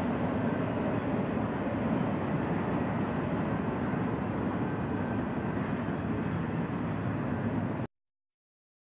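Double-stack intermodal freight train running away into the distance, a steady rumble that cuts off suddenly near the end.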